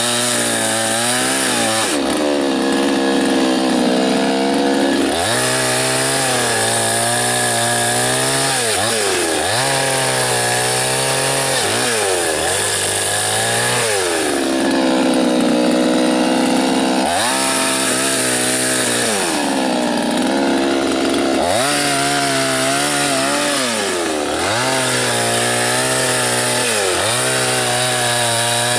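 Soyuz PTS-99520T two-stroke petrol chainsaw bucking a dry birch trunk into firewood rounds. The engine pitch sags and climbs back again and again, about every two to three seconds, as the chain works through the wood.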